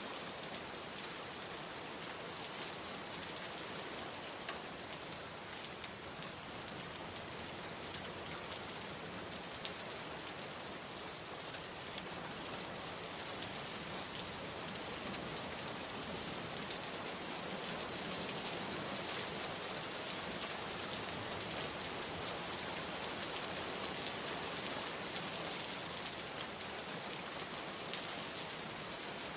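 Steady rain falling, an even hiss with scattered drop ticks, growing slightly heavier in the second half.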